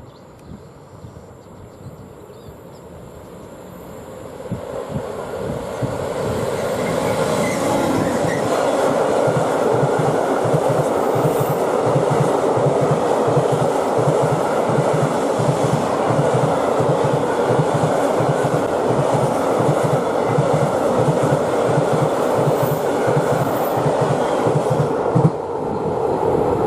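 Freight train hauled by a Class 66 diesel locomotive passing close by. It builds up from a distance over the first few seconds, then the wagons roll past with a steady rumble and a rhythmic clickety-clack of wheels over the rail.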